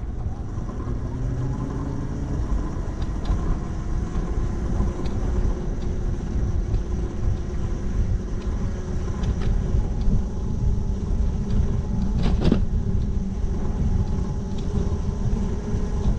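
Riding noise on an electric moped: steady wind rumble on the microphone, with a faint motor whine that rises in pitch over the first few seconds as it picks up speed. A single sharp knock about twelve seconds in.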